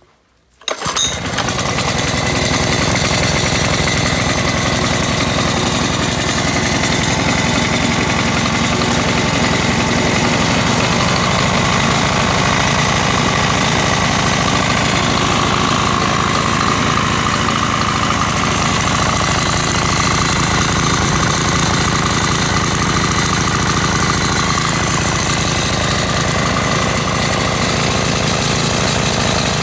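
Shibaura GEF15RE small four-stroke engine starting up less than a second in, catching at once and then running steadily and loud.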